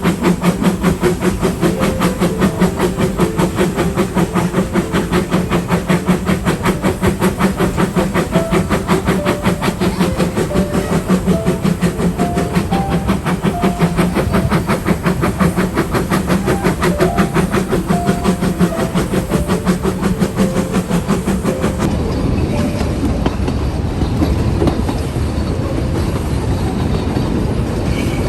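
Puffing Billy narrow-gauge steam train running, with a fast, even beat of about five pulses a second. About 22 seconds in, the beat gives way to a steadier rumble.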